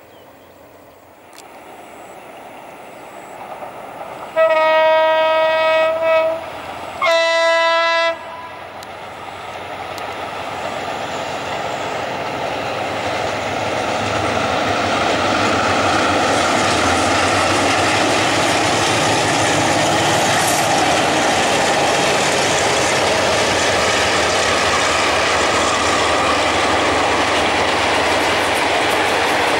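A diesel-hauled passenger train sounds its horn in two blasts, the first about two seconds long and the second about a second. Then the train draws near and passes, its wheel and rail noise swelling and then holding steady and loud, with a clickety-clack over the rail joints.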